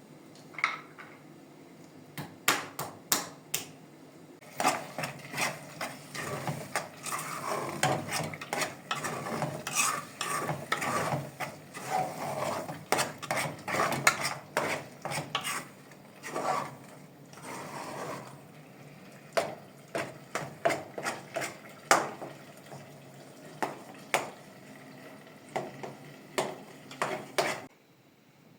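Kitchen utensils clinking, knocking and scraping against cookware, many sharp clinks in irregular quick succession, stopping suddenly near the end.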